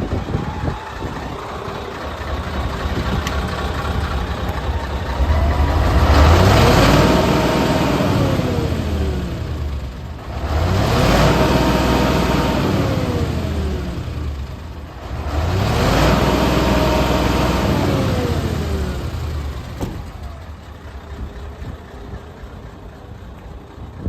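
Mitsubishi Fuso Great dump truck's 8DC11 V8 diesel engine idling, then revved up and let fall back three times, each rev rising and dropping in pitch over about four seconds, before settling back to idle near the end.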